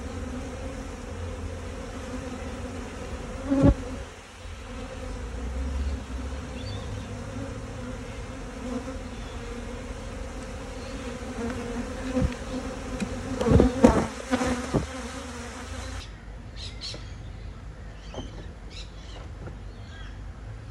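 Honeybees humming in a steady drone around an open hive, with a few sharp knocks about four seconds in and around fourteen seconds. About sixteen seconds in the hum drops away and short bird chirps take over.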